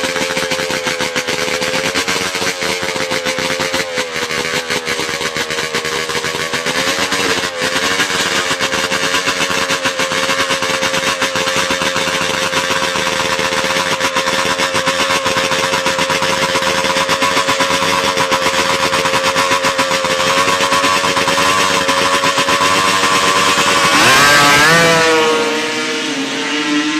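Drag-racing motorcycle engine running at high, steady revs. Near the end the pitch sweeps sharply and falls away.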